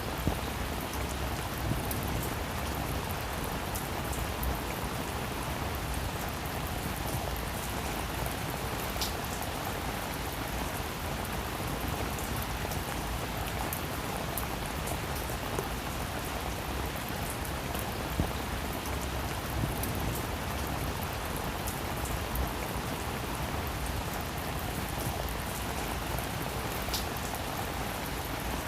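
Steady rain falling on a roof: an even hiss with scattered louder drops ticking here and there.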